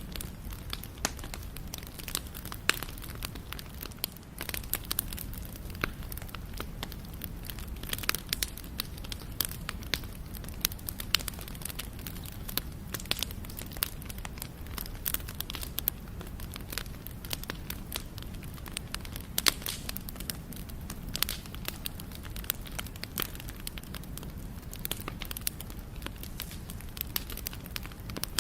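Wood campfire burning, with a steady low rumble of the flames and frequent sharp, irregular pops and crackles of burning wood.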